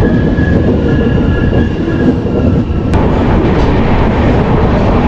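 Passenger train running on the rails, heard from aboard a coach: a steady loud rumble of wheels on track, with one sharp click about three seconds in.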